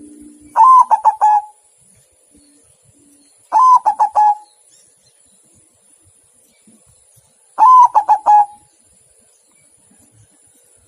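Zebra dove (perkutut) cooing: three short phrases about three and then four seconds apart, each a quick run of four or five clipped notes.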